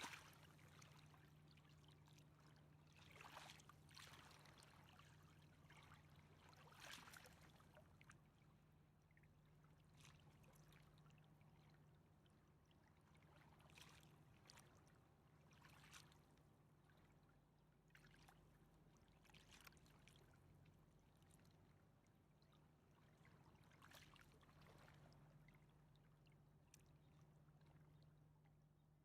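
Faint river water lapping in soft, irregular splashes every couple of seconds, over a low steady hum.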